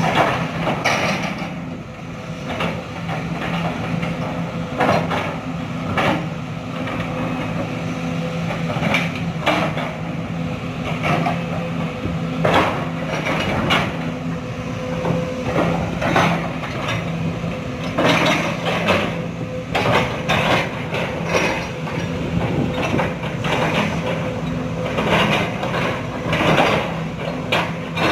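Sumitomo SH210 excavator's diesel engine running steadily, with irregular knocks and clanks throughout.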